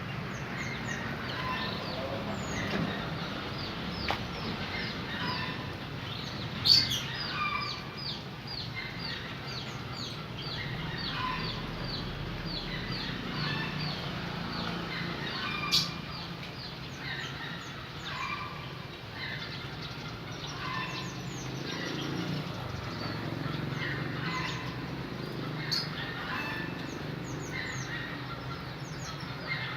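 Canaries chirping and twittering: many quick, high, repeated notes go on all through. Two sharp clicks stand out, about a third of the way in and about halfway through.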